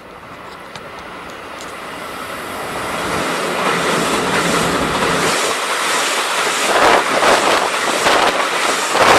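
Train approaching along the track, growing steadily louder, with wheels clattering over rail joints in the last few seconds as it draws close.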